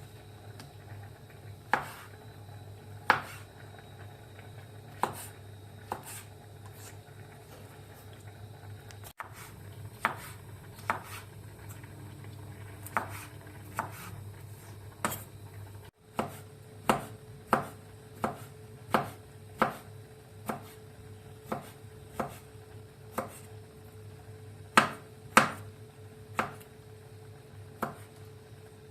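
Knife chopping food on a cutting board, single sharp strokes: scattered at first, then a steadier run of about one stroke a second from about halfway, over a low steady hum.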